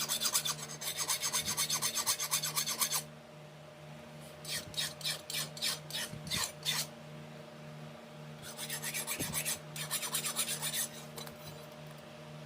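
Hand filing: a file scraped back and forth in quick strokes, in three bouts separated by short pauses.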